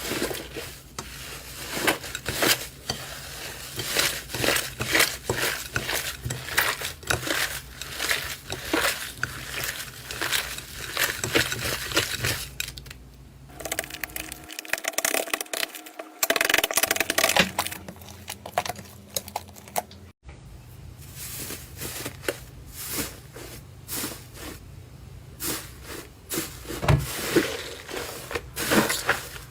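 Slime being squeezed and poked by hand, giving a dense run of small crackling pops and clicks. The sound changes abruptly twice as one clip gives way to the next.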